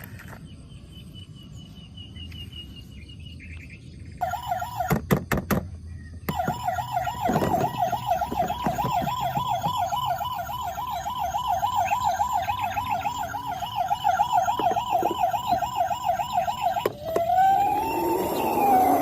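Electronic siren of a battery-powered toy vehicle: a fast warbling siren starts about four seconds in, is broken briefly by a few clicks, then runs steadily before switching near the end to a slower rising and falling wail.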